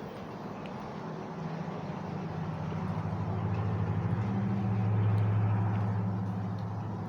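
A vehicle passing by: a low, steady engine drone that grows louder to a peak about five seconds in, then fades.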